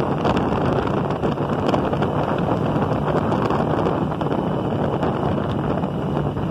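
Motorcycle riding at speed: heavy wind rushing over a mounted phone's microphone, with the engine running steadily underneath.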